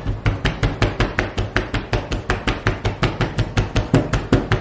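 Rapid, even knocking on a hard surface, about seven knocks a second, each with a dull low thud.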